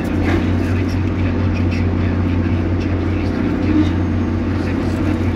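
Excavator's diesel engine running steadily, a constant low drone, with faint voices in the background.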